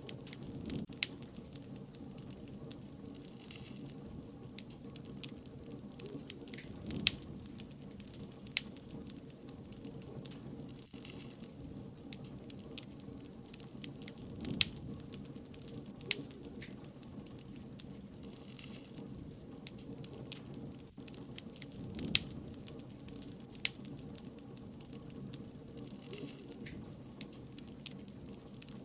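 Bonfire crackling: irregular sharp pops and snaps of burning wood over a steady low rumble of the flames, with a handful of much louder pops scattered through.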